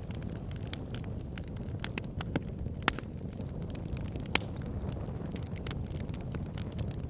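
Wood fire burning in a fireplace: a steady low rumble of flames with frequent sharp crackles and pops, two of them louder, about three and four and a half seconds in.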